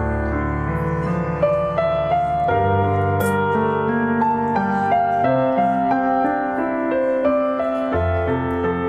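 Background piano music: a slow melody with chords, with a few brief crisp noises over it.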